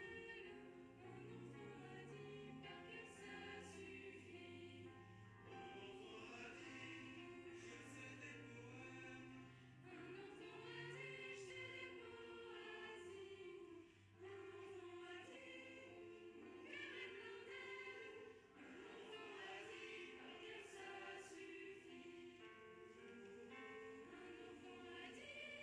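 Quiet background music: a choir singing over sustained low notes.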